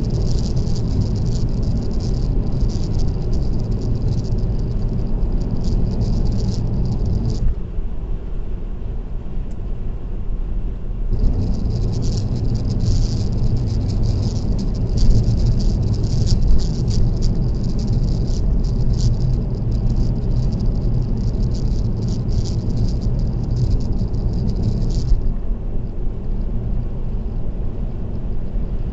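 Road noise inside a car at expressway speed, with a rapid, high-pitched rattle over it that drops out for a few seconds about a quarter of the way in and again near the end.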